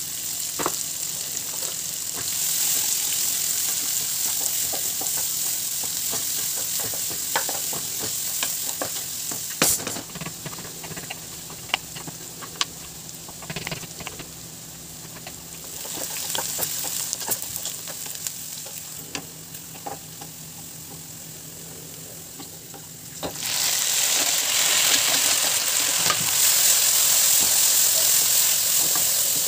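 Chopped onions sizzling in hot oil in a kadai, with scattered knife strokes on a cutting board as tomato is cut while the sizzle quietens. About 23 seconds in, the sizzle turns suddenly much louder as chopped tomato goes into the hot pan and is stirred with a wooden spatula.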